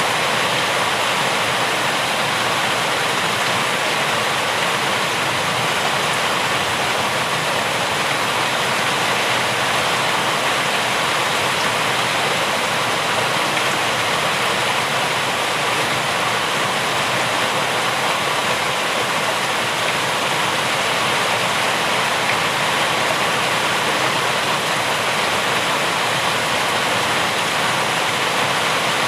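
Rain falling steadily, an even hiss with no thunder or separate drips standing out.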